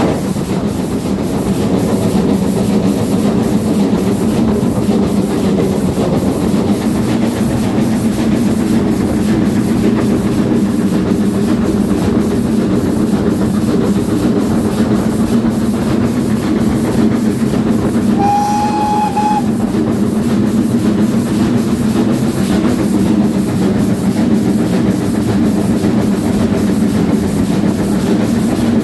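A train hauled by the GWR Castle class steam locomotive 4079 Pendennis Castle running steadily, with a continuous rumble and rail clatter. A short, steady whistle sounds once, about two-thirds of the way through.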